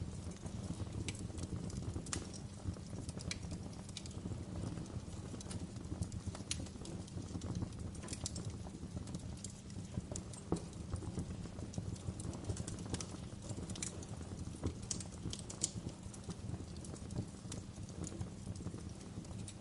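Wood fire crackling in a fireplace: a steady low rush of flames with irregular sharp pops and snaps.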